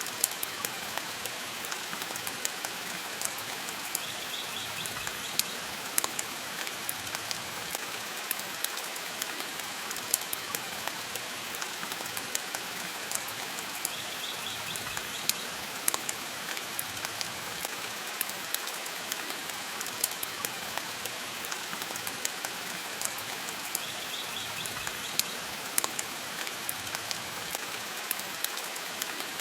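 Steady rain hiss with sharp crackles and pops from a wood fire burning in a stone fireplace, the pops falling at irregular moments.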